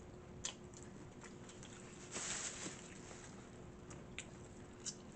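Quiet eating sounds from handling and eating fried fish and fries: a few small sharp clicks and taps, and a brief rustle about two seconds in.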